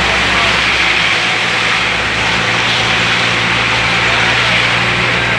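Bus engine running steadily with a low hum under loud road noise, heard from inside the moving bus.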